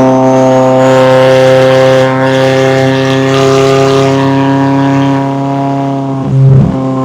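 McLaren 570S twin-turbocharged V8 exhaust running loud at a steady engine speed, with a brief break and waver in the note about six seconds in.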